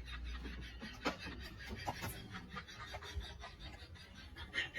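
Faint rustling and scraping with scattered light clicks.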